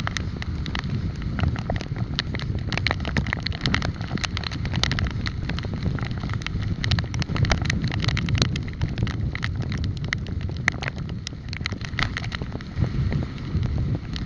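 Wind buffeting the microphone on a moving bicycle, a steady low rumble, with frequent small clicks and rattles throughout.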